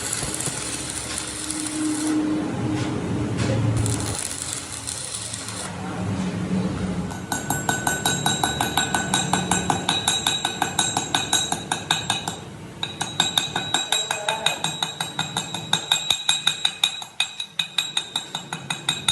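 Rapid metallic tapping starts about seven seconds in: several sharp strikes a second, each with a clear ringing tone, like steel being struck. It pauses briefly partway through, then resumes. Before it there is a rougher, steadier noise of workshop work.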